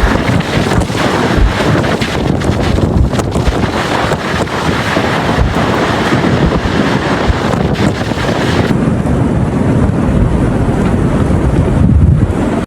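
Strong blizzard wind blowing hard across the microphone: a loud rushing noise with a gusty low rumble. About nine seconds in, the high hiss drops away and the low buffeting stays.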